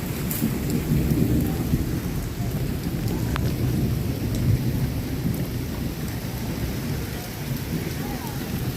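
Heavy rain pouring steadily, with a deep low rumble underneath it and a few faint drip clicks.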